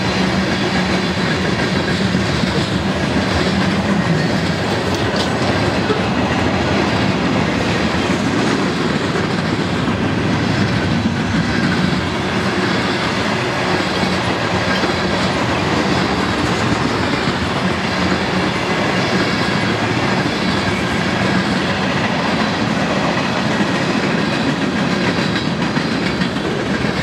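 Freight cars of a manifest train, hoppers, boxcars and tank cars, rolling past on steel wheels: a steady, loud rumble and clatter of wheels on the rails.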